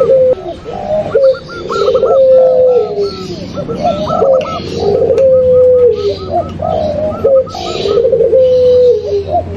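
Several doves cooing over one another: zebra doves, spotted doves and puter pelung collared doves. Low repeated coos, some with long held notes, run over a quicker series of higher coo notes, with chirping mixed in. This is a layered call recording used to lure these doves.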